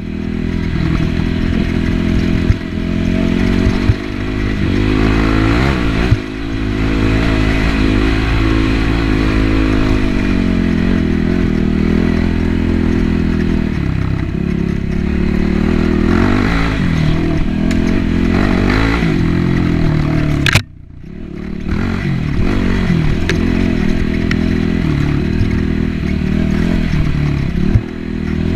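Yamaha WR450F's 450 cc single-cylinder four-stroke engine running under way on a trail ride, its pitch rising and falling as the throttle opens and closes. A few short knocks, with one sharp crack about twenty seconds in, after which the engine sound briefly drops away.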